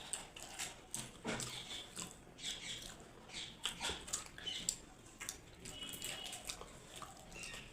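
Close-miked mouth sounds of people eating: quiet chewing, lip smacks and wet clicks in an irregular patter.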